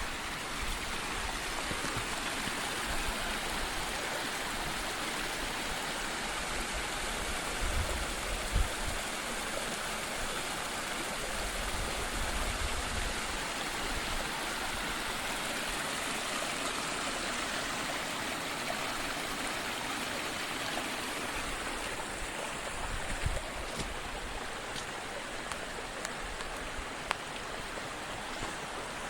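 Stream running over rocks: a steady rush of flowing water, with a few brief low bumps about eight seconds in and again near twenty-three seconds.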